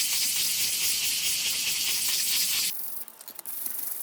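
Sandpaper worked rapidly back and forth over a clear plastic part, an even steady hiss. It cuts off sharply a little over two and a half seconds in, and a few separate, softer rubbing strokes follow.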